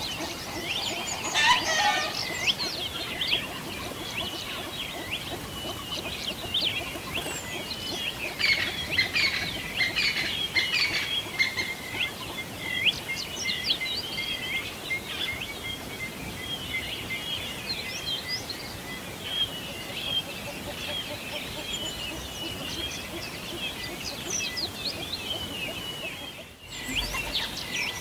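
Many small songbirds chirping and singing at once, a dense chorus of quick high chirps and trills. A lower, fuller call sounds about a second or two in, and the chorus drops out for a moment near the end.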